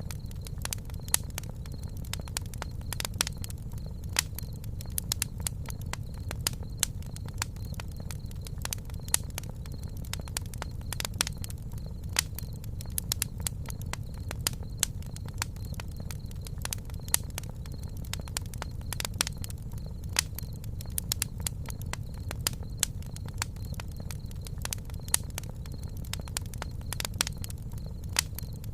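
Wood campfire crackling, with sharp, irregular pops and snaps over a low, steady rumble.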